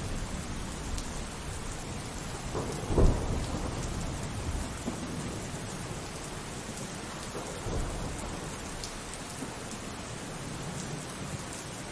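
Steady rainfall with rolling thunder rumbling underneath; a loud thunderclap hits about three seconds in and a smaller one near eight seconds.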